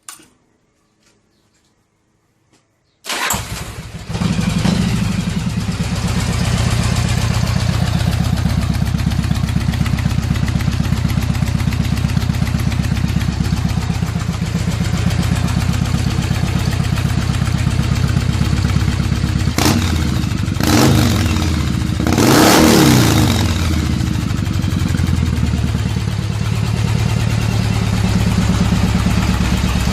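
Yamaha Virago XV1100's 1100 cc V-twin on Jardine straight pipes starting up about three seconds in, after a few faint clicks, then idling loud and steady. About two-thirds through it is revved up and down a few times before settling back to idle.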